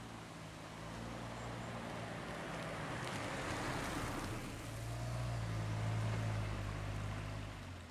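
A vehicle engine running with a low steady hum and a rush of road or wind noise that swells twice and fades near the end.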